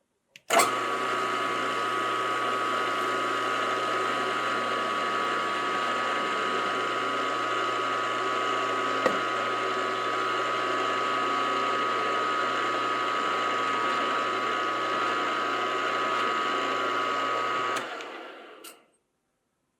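Electric motor of a machine tool starting, running at a steady speed with a steady whine and low hum, then switched off near the end and winding down.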